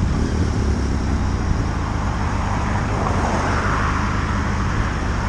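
Steady road noise recorded on a moving motorcycle: rushing wind and engine and tyre noise, swelling a little about three seconds in.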